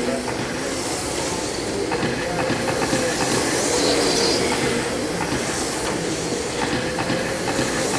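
A pack of 1/10-scale RC racing trucks with 17.5-turn brushless motors running laps: a steady mix of electric motor whine and tyre noise, with a higher whine swelling briefly about four seconds in as a truck passes close.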